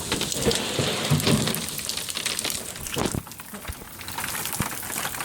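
Heavy rain mixed with hail falling: a steady downpour hiss broken by many sharp ticks and knocks of hailstones striking hard surfaces.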